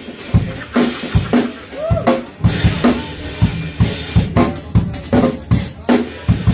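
Live band playing, driven by a drum kit keeping a steady beat of kick drum and snare with cymbals over the other instruments.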